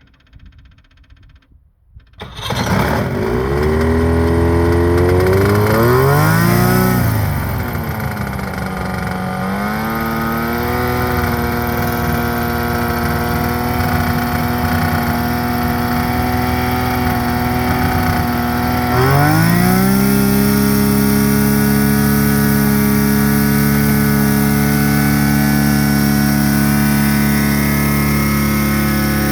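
A piston aircraft engine starts about two seconds in and revs up and back down. It settles into a steady run, then about two-thirds of the way through opens up to a higher, steady pitch.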